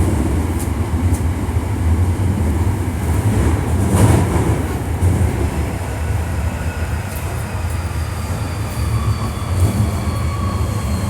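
Hankyu 1300 series electric train running in a subway tunnel: a steady rumble of wheels on rail, with a short knock about four seconds in. Faint high whines from the traction equipment sink slightly in pitch in the second half.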